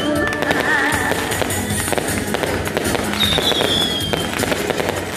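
Fireworks crackling and popping in a dense, continuous stream, with a high whistle falling in pitch about three seconds in.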